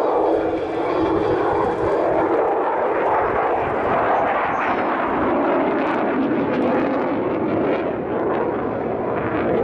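Mitsubishi XF-2 fighter jet in flight: the single F110 turbofan makes a loud, steady rush of jet noise.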